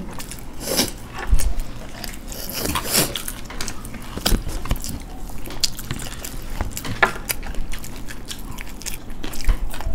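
Close-up eating sounds: chewing and crunching of churmur chaat, with scattered crunchy bites and mouth clicks.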